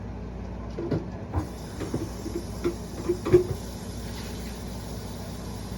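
A sink tap starts running about a second and a half in, giving a steady hiss of water. Several light knocks and clinks of a glass or bottle being handled come through it.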